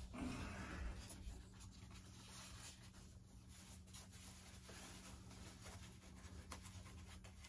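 Faint scratching and a few light clicks of a screwdriver working small screws loose, over a low steady hum.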